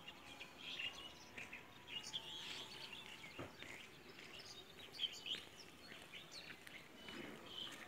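Small birds chirping, many short high calls scattered throughout, over faint outdoor background noise.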